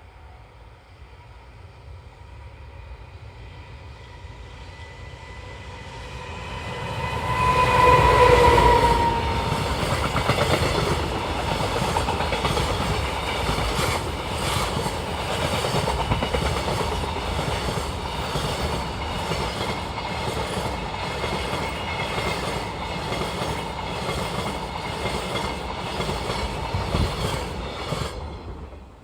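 EF510 electric locomotive hauling a freight train past at speed. It grows louder over the first seconds, with a steady whining tone that is loudest about eight seconds in and drops in pitch as the locomotive passes. The wagons then rumble by with a regular clickety-clack of wheels over rail joints, which stops abruptly near the end as the last wagon goes.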